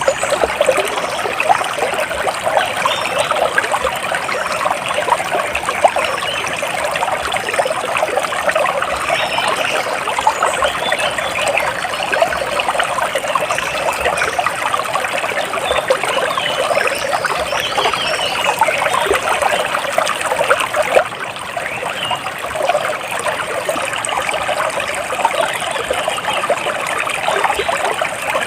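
Water trickling and splashing steadily, like a small stream or cascade running over rocks.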